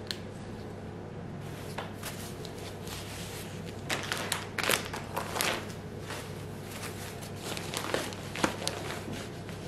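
Household handling noises: scattered clicks, light knocks and rustling, busiest from about four to six seconds in and again near eight seconds, over a steady low hum.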